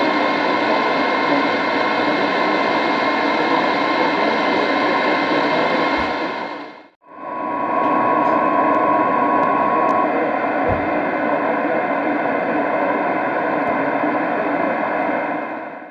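Radio static: a steady hiss with several faint steady tones running through it. It fades out about seven seconds in and fades back in, a steady whistling tone sounds for about three seconds, and the static stops at the end.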